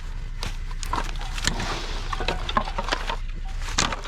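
Irregular knocks and clatter of scrap items being handled and set down in a pile.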